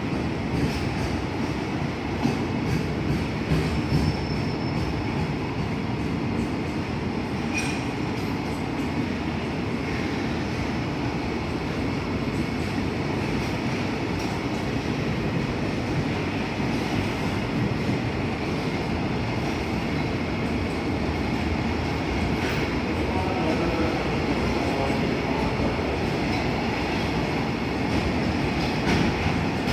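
Freight train rolling past, a steady rumble of wagons on the rails with occasional faint wheel clicks.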